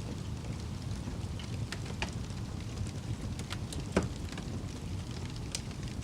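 Campfire burning with a steady low rumble and scattered sharp crackles and pops, the loudest pop about four seconds in.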